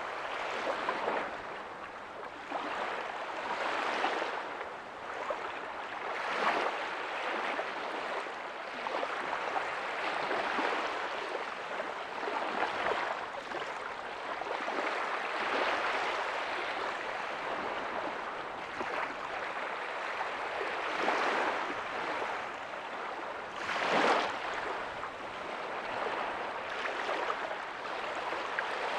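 Small ocean waves breaking softly on a beach: a continuous wash of surf that swells every few seconds as each wave comes in, with one louder break near the end.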